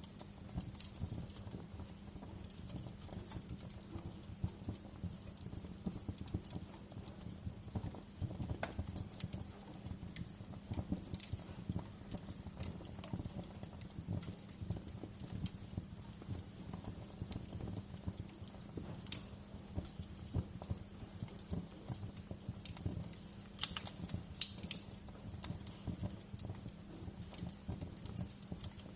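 Wood fire crackling in a fireplace: a dense, continuous run of small low crackles, with sharper, brighter pops every few seconds and a cluster of them near the end.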